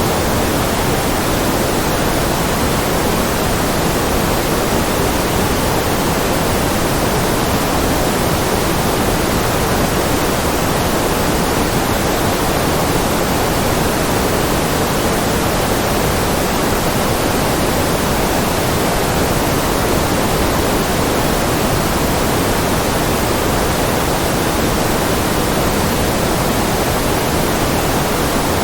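Steady white noise: an even, unchanging hiss, fuller in the low and middle range than at the top.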